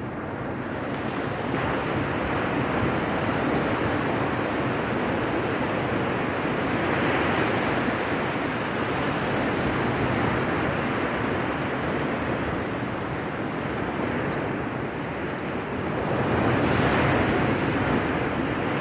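Ocean surf breaking on a beach: a steady rush of waves that swells louder about seven seconds in and again near the end.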